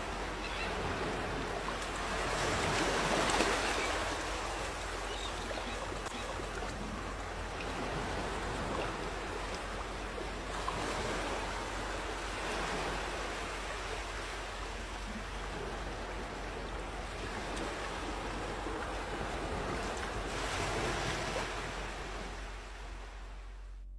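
Sea waves breaking and washing on a beach: a steady surf rush that swells three times as bigger waves break.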